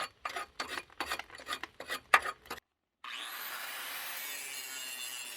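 Power grinder working on a steel truck frame: a run of irregular scraping strokes, then after a brief dropout the grinder spins up with a quick rising whine and runs steadily.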